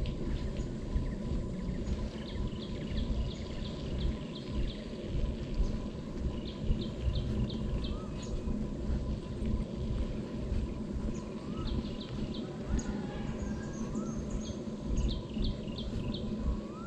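Birds calling over a steady low background rumble: short runs of quick, high ticking notes every few seconds, and a few brief rising whistles.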